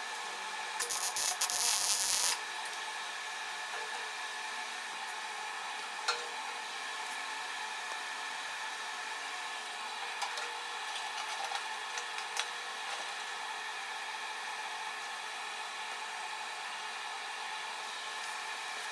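A small electric motor running with a steady whir, with a brief loud scraping noise about a second in.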